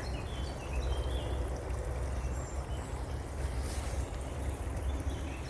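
Steady low rumble of wind buffeting the microphone outdoors, with a few faint bird chirps high above it and a brief rustle near the end.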